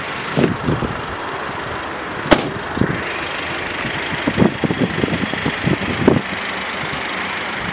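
SsangYong Actyon Sports diesel engine idling, with wind buffeting the microphone. A single sharp bang about two seconds in as the driver's door is shut.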